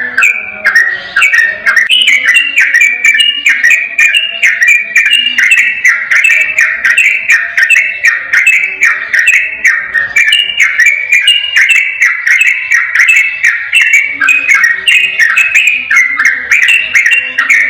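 Sooty-headed bulbul singing a long, rapid, unbroken run of bright whistled phrases, the notes sliding downward several times a second without a pause.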